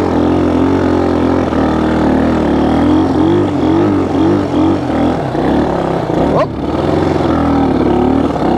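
1974 Honda XL175's single-cylinder four-stroke engine pulling under load as the bike is ridden through snow, its revs rising and falling with the throttle. About six seconds in the revs drop briefly, then climb sharply.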